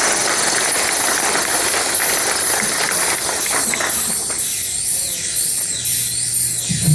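Dense hissing electronic noise. From about halfway it turns into repeating swooping sweeps in the high range, and a low steady synth drone comes in near the end: the electronic intro of a song starting up.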